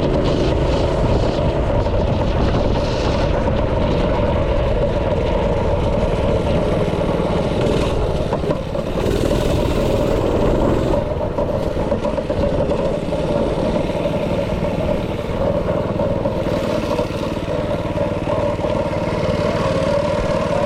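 Small single-cylinder engine of a yard go-kart or mini bike running steadily and loudly, with brief dips in its note now and then.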